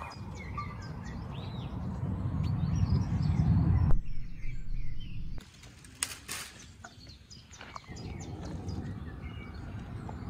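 Small birds chirping outdoors over a low, rough background noise that swells and then cuts off abruptly about four seconds in; a brief sharp noise comes about six seconds in.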